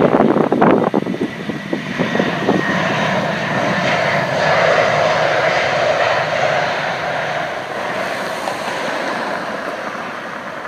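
Airbus A320 jet airliner landing, its engine noise swelling to a peak about halfway through and then fading as it passes. Wind buffets the microphone at the start.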